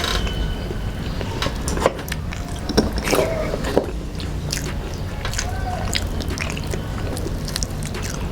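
Close-up eating sounds: chewing and biting, with scattered small wet clicks from the mouth.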